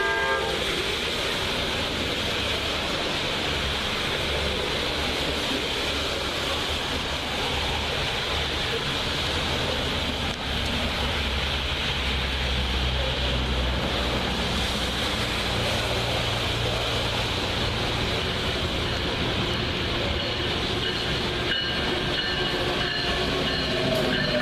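Amtrak passenger train running through a station, a steady rumble and rail noise with some clickety-clack. A brief horn chord sounds right at the start, and a K5LA five-chime horn begins to sound faintly near the end.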